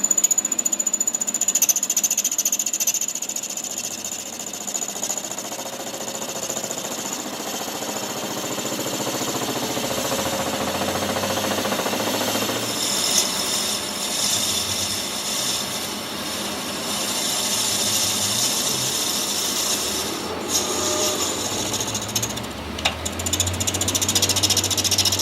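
Power tool working on metal: a continuous fast rattling that shifts in pitch and loudness as it works.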